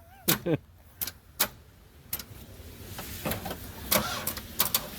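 Buick Century being cranked by its starter without firing: sharp clicks and knocks, then from about two seconds in a steadier cranking noise. The engine is heat soaked and the battery half dead.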